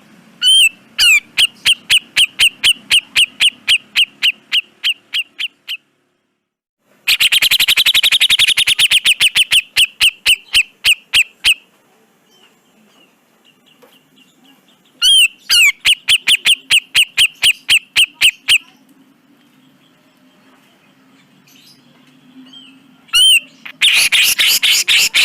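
Grey-cheeked bulbul (cucak jenggot) calling in four loud bursts of harsh, rapid repeated notes. Each burst opens with a short rising note and then fades out over a few seconds.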